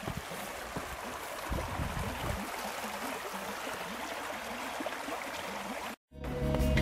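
A steady hiss of water, with low rumbling gusts of wind on the microphone now and then. It cuts off abruptly near the end, and music with held tones begins faintly.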